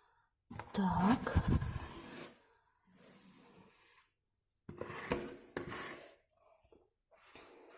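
Metal spatula scraping and smoothing over freshly glued fibreglass wallpaper, pushing out excess glue, in several separate strokes with short pauses, the loudest about a second in.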